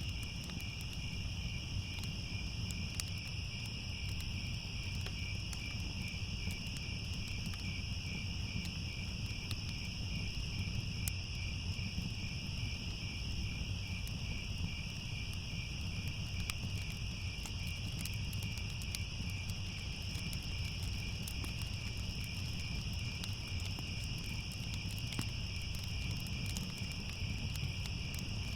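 Crickets chirring in a continuous high trill, over a low steady rumble and scattered small crackles of a fire.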